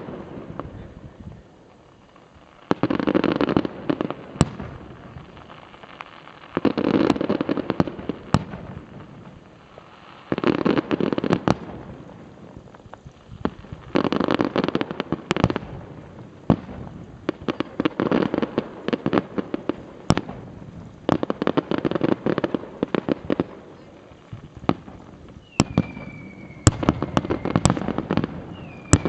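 Fireworks display: aerial shells bursting in repeated volleys every three to four seconds, each volley a rapid crackle of many sharp pops. A high whistle glides down and holds near the end.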